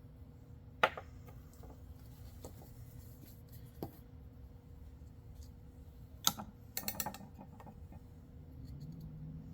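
Hard plastic pipe pieces being handled and set down, giving a few sharp clicks and knocks: one loud click about a second in, then a quick clatter of several clicks a little past halfway, over a faint steady hum.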